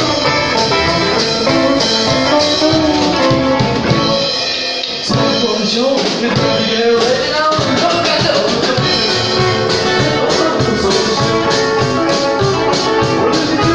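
Rockabilly music with guitar and drums, with a short break about five seconds in before the steady beat picks up again.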